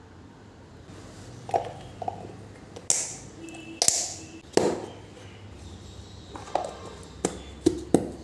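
A run of about eight sharp knocks and clacks of objects handled and set down during housecleaning, two of them about three and four seconds in followed by a short hiss.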